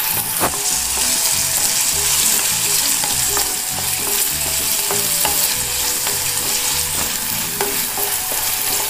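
Potato cubes, onion and green chilli sizzling in hot oil in a non-stick pan as a wooden spatula stirs them, with scattered light taps and scrapes of the spatula against the pan.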